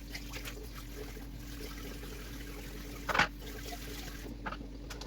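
Water trickling from a kitchen tap while a plastic high chair tray and coffee-maker drip pan are washed at the sink, with one short louder splash or clatter about three seconds in.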